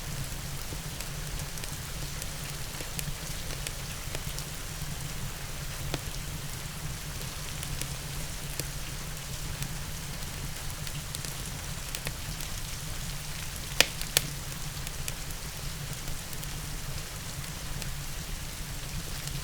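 Steady rain mixed with a crackling fireplace fire: scattered small cracks over the even rain, and two sharper pops a little over two-thirds of the way through.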